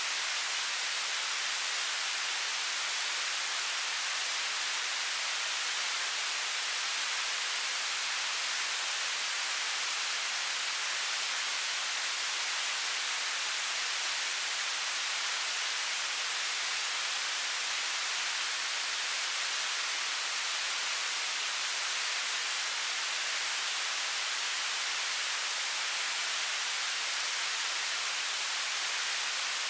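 Television static: a steady, unbroken hiss of noise, strongest in the high frequencies, with no change in level.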